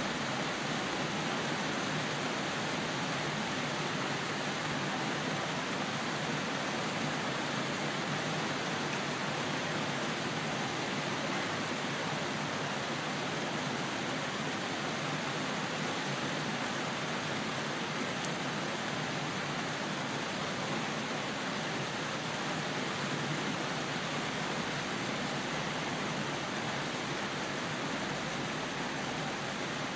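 Steady rain falling, an even hiss that holds at one level throughout, with no thunder.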